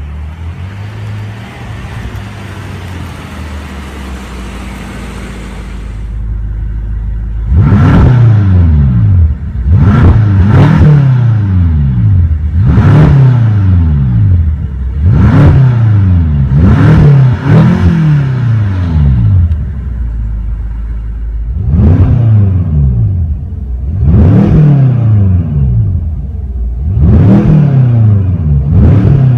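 2016 BMW M5 (F10) twin-turbo V8 idling, then revved in Park in about ten quick blips. Each one climbs in pitch and falls back to idle, heard from inside the cabin.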